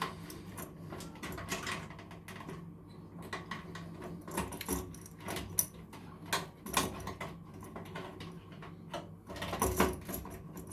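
Hands working electrical wire into a connector: scattered small clicks, taps and rubbing, with a louder knock near the end, over a faint low hum.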